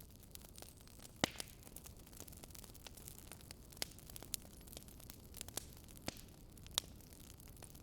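Wood fire crackling: irregular sharp pops and snaps, the loudest about a second in, over a faint steady hiss.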